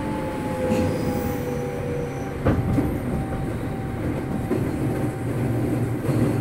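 Running sound of a JR 205 series electric commuter train heard from inside a passenger car: a steady rumble of wheels on rails, with faint tones slowly falling in pitch and one sharp knock about two and a half seconds in.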